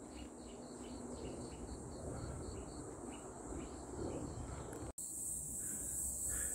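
Insects shrilling in a steady high drone, with a short chirp repeating about three times a second through the first five seconds. After a break near five seconds the drone comes back louder. A low rumble runs underneath.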